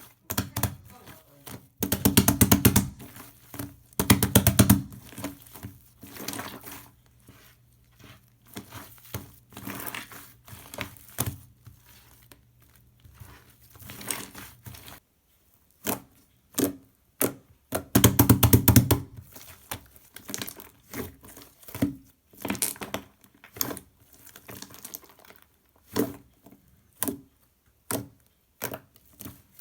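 Shaving-foam slime being squeezed and pressed by hand, giving irregular crackling pops and squishes. There are denser, louder runs of rapid popping about 2 s, 4 s and 18 s in.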